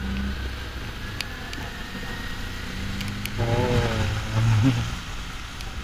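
Kawasaki Ninja 400's parallel-twin engine running steadily under the rider, with a low hum and a faint tone that rises slowly; the engine note swells for about a second near the middle.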